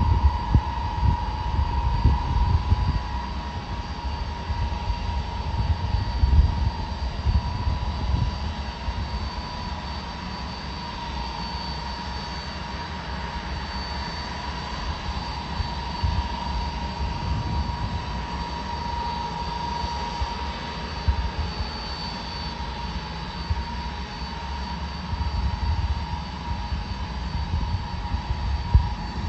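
Jet engines of a large military transport aircraft running steadily, with a constant high whine over a low rumble that rises and falls.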